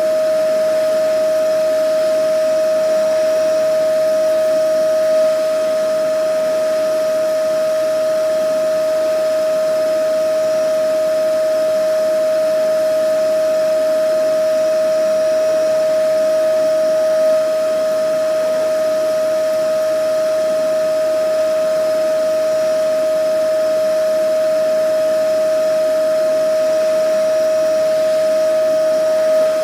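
Vacuum cleaner running steadily: a constant motor whine at one pitch over a rushing of air.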